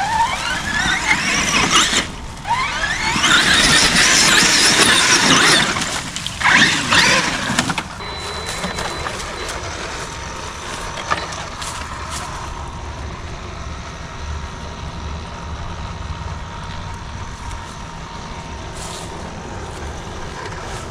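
Traxxas X-Maxx RC monster truck's electric motor whining as it is throttled, rising in pitch in several loud bursts over the first eight seconds. After that a quieter, steady sound continues.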